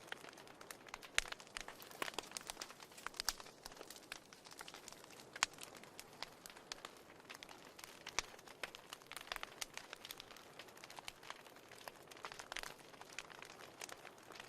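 Fire in a fireplace crackling: many quick, irregular pops and snaps over a soft hiss, with a few sharper pops standing out.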